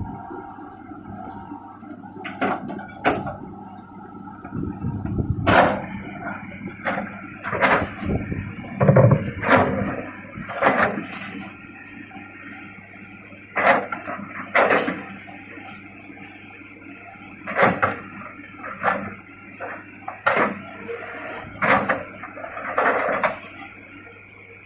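Excavator engine running steadily while the machine works, with repeated sharp knocks, creaks and scrapes, some loud, scattered irregularly throughout.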